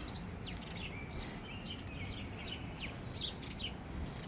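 Small birds chirping: many short high chirps and quick falling notes, one after another, over a low steady background rumble.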